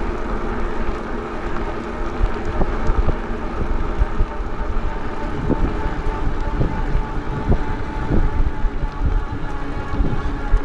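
Riding noise from an e-bike on the move: a low rumble with a steady motor whine running under it, and a few short knocks from bumps in the road.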